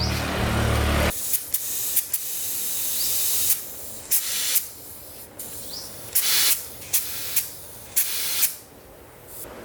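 A steady low mechanical hum cuts off about a second in, followed by a spray hissing in about seven or eight short bursts of varying length.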